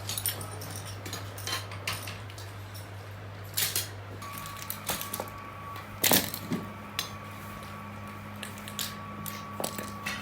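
Irregular metallic clinks and knocks from metal parts being handled or struck, over a steady low hum. The loudest knock comes about six seconds in, and a thin steady whine joins about four seconds in.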